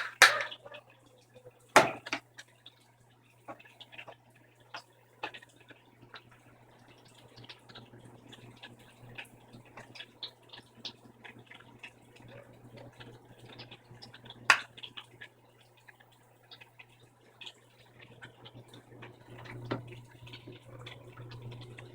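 Brastemp 15 kg washing machine draining: a steady low drain-pump hum under trickling, dripping water, with sharp clicks about two seconds in and about fourteen seconds in. The drain pump is slow.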